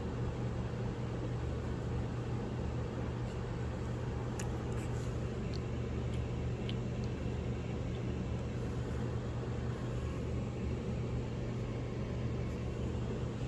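Steady low mechanical hum of a running appliance or fan, with a few faint light clicks about four and a half to seven seconds in.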